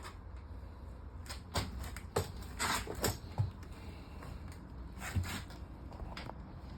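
A scattered series of light knocks and clicks, bunched together about a second and a half to three and a half seconds in and again around five to six seconds, over a steady low rumble.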